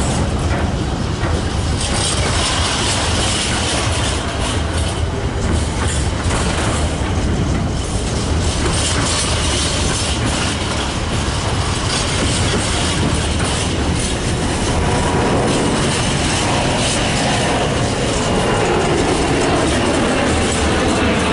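Diesel-hauled freight train passing, its wagon wheels clattering over rail joints with a steady rumble. A whine that shifts in pitch comes in near the end.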